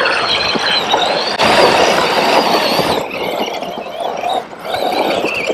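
Arrma Kraton EXB 6S RC truck running hard, its Hobbystar 4082 brushless motor whining high and wavering in pitch with the throttle, over rough tyre and drivetrain noise. The whine drops away about three seconds in, dips briefly, and picks up again near the end.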